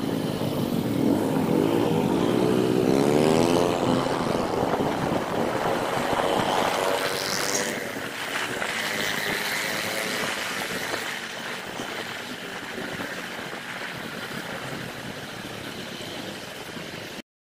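Motorcycle engine running while riding, heard from on board, its pitch rising and falling with the throttle over road and wind noise. It gets quieter after about the halfway point and cuts off suddenly just before the end.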